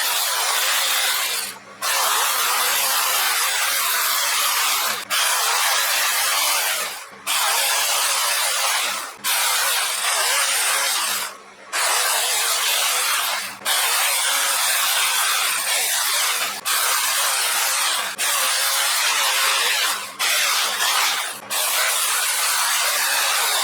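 Battery-powered electric chainsaw cutting firewood, running in stretches of a few seconds with short stops between them.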